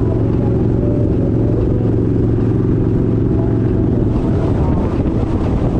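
Kawasaki Vulcan 1700 Vaquero's V-twin engine running under way, a steady low engine note that turns rougher and noisier about four seconds in.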